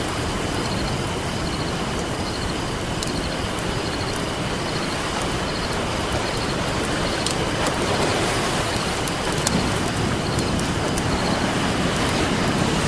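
Campfire crackling, with scattered sharp pops and snaps, over a steady wash of ocean surf.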